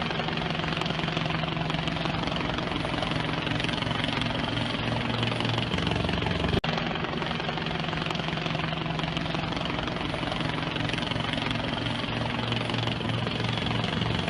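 Steady engine drone with a constant low hum, cut by a brief dropout about six and a half seconds in.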